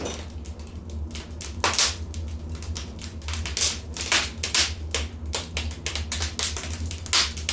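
Wood fire in a fireplace crackling: irregular sharp pops and snaps, several a second, some louder than the rest, over a steady low rumble.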